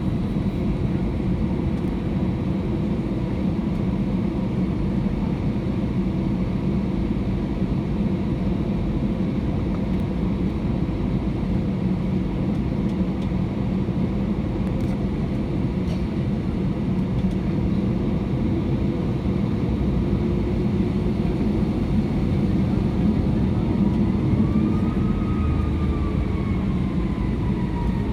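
Steady low rumble of an Airbus A320-200 heard from inside the passenger cabin, with a whine that rises and then slowly falls near the end.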